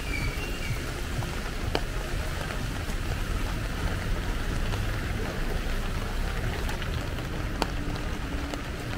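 Heavy rain falling steadily, an even hiss of drops over a low rumble, with two sharp ticks, one about two seconds in and one near the end.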